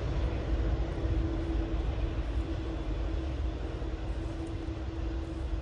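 Jet aircraft engines running steadily: a constant hum over a low rumble.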